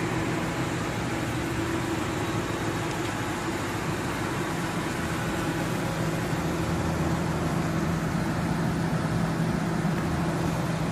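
A car engine idling steadily: an even low hum under a constant hiss.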